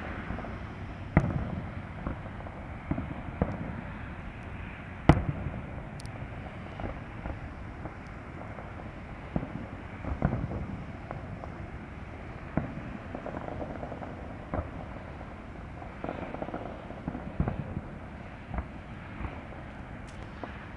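Fireworks going off: a string of bangs at irregular intervals, some sharp and some duller booms, with two loudest bangs about a second in and about five seconds in.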